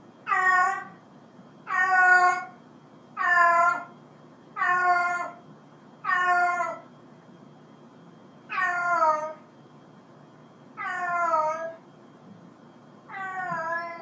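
A domestic cat meowing eight times in a row, each meow under a second long, about a second and a half apart at first and then about two seconds apart. The later meows drop in pitch at the end.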